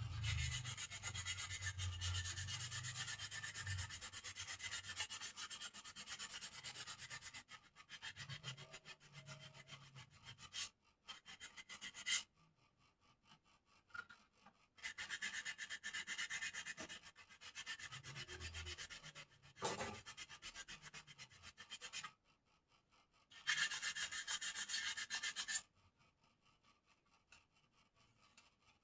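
Hand sanding of bird cage parts: quick, even back-and-forth rubbing strokes with sandpaper. The strokes come in several runs of a few seconds each, with short pauses between them.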